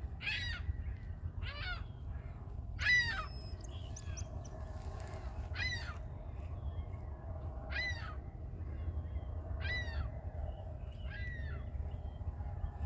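A bird calling over and over, short harsh call notes about seven times, one every second or two, over a steady low rumble.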